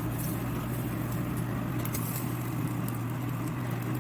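Steady drone of an exhaust hood fan running over a charcoal grill, with a low hum, and a few faint ticks and crackles over it.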